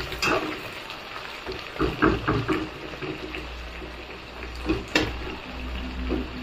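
Sliced onions and dried red chillies sizzling in hot oil in an iron kadai, while a metal slotted spatula scrapes and clinks against the pan several times, sharpest about five seconds in.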